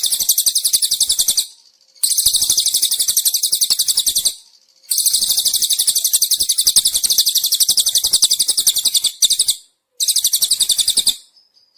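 Cililin bird singing in rapid, high, buzzy trills, four phrases of about one to four seconds each with short breaks between them.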